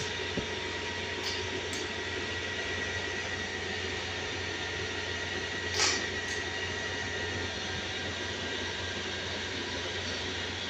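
A steady mechanical hum with a faint high whine, broken by a few light clicks about a second in and near two seconds, and a louder one near six seconds.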